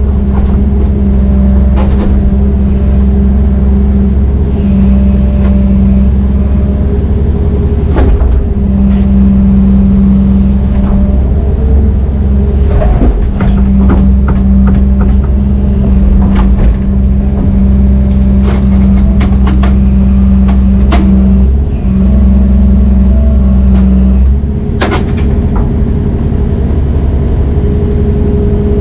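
A heavy diesel engine of working machinery running steadily, its hum dipping briefly now and then, with scattered sharp knocks.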